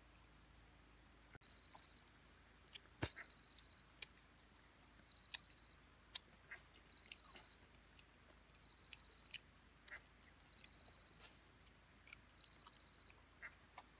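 Faint, evenly repeated high chirp, a short trill about once a second, over scattered soft clicks and ticks.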